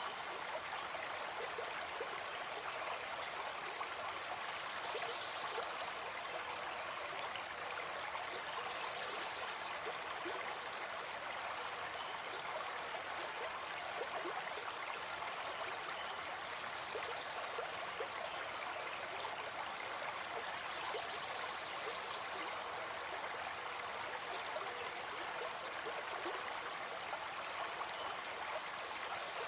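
Gentle forest stream flowing with a steady, even babble, and a few faint high bird chirps in the background.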